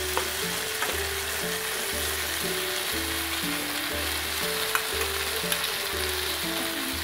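Fried walking catfish, young green peppercorns and herbs sizzling in oil in a nonstick frying pan, stirred with a metal spoon that gives a few light clicks against the pan. Background music with a steady, repeating bass line plays underneath.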